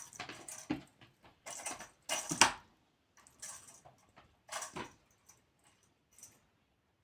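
A cat playing with a toy, batting and pouncing on it: irregular bursts of clattering and rustling, the loudest about two and a half seconds in, thinning to a few small clicks near the end.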